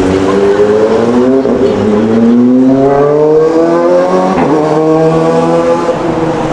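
A road vehicle's engine accelerating through the gears. Its pitch climbs, drops suddenly at a gear change about two seconds in, climbs again, and drops once more near the end.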